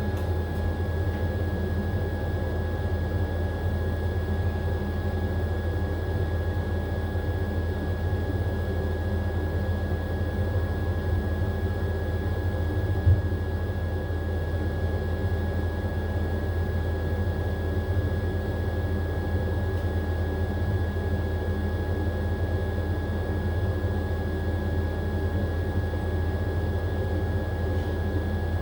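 AQUA AQW-DX12M drum-type washing machine in its spin cycle, the drum turning at a steady speed with an even low hum and a faint steady whine. A single knock comes about halfway through.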